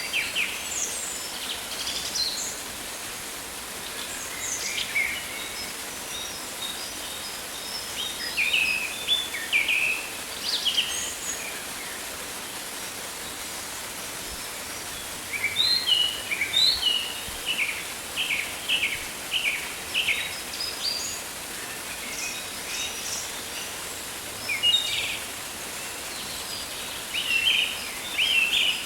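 Rainforest ambience: birds calling and chirping over a steady background hiss, with a run of short repeated notes in the middle and a busier cluster of calls near the end.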